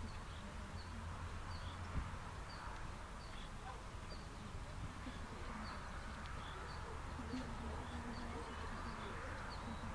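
Outdoor ambience: a small bird repeats a short, high chirp over and over, about one to two a second, over a steady low rumble. One dull knock about two seconds in.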